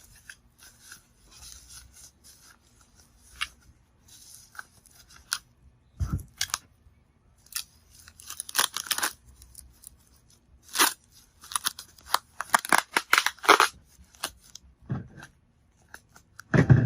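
Packing material being handled around an amplifier: irregular crinkling, rustling and tearing sounds, with a dense run of crackling about two-thirds of the way through. Low thuds come about six seconds in and again near the end.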